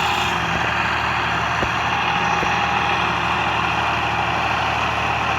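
New Holland 480 tractor's diesel engine running steadily.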